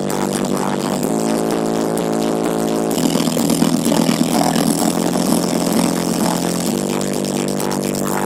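Loud, buzzing, engine-like drone played through a large sound system, holding steady pitches that step to new ones about a second in, about three seconds in and near the end.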